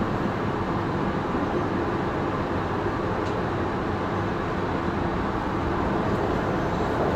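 Sydney Trains Tangara electric train running along the track, heard from inside its rear guard's cab: steady noise of wheels on rail and the moving car.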